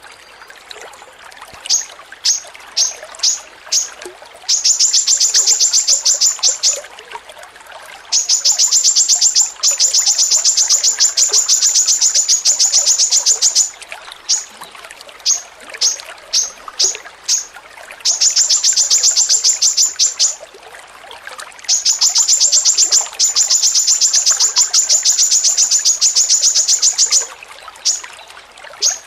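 Songbird calling in high, sharp chips. Single chips come about two a second, breaking into rapid rattling runs that last a few seconds each, several times over.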